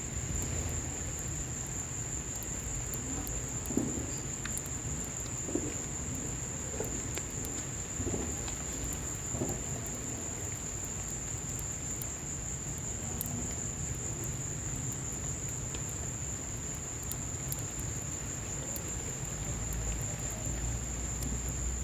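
Wood fire crackling in a patio fireplace, with scattered sharp pops, over rain and a steady high-pitched insect trill.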